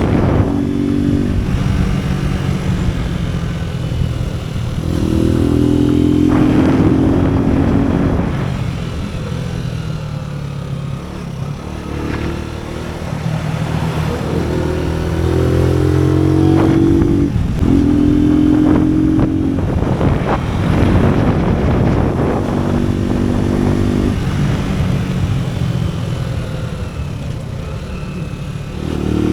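AKT NKD 125 motorcycle's single-cylinder four-stroke engine running under way, its pitch climbing and falling several times as the throttle opens and closes and the gears change.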